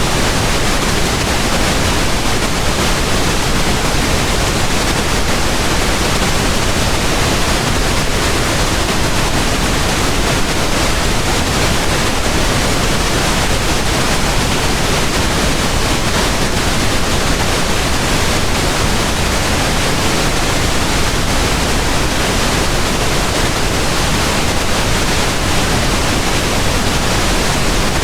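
Steady synthetic pink noise: an even, unchanging hiss spread across the whole range, heavier in the lows than white noise.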